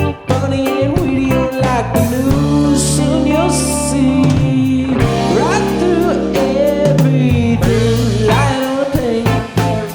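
Live rock band playing an instrumental passage: electric guitar with bent notes over bass and a drum kit.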